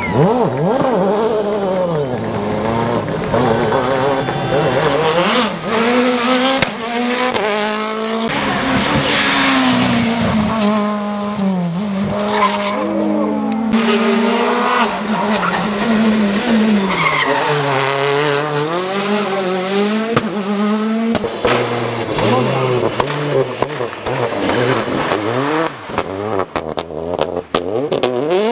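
Rally cars passing at full attack, several passes in a row, engine pitch climbing and dropping through gear changes and lifts, with tyres skidding and squealing in the corners. A run of sharp cracks near the end.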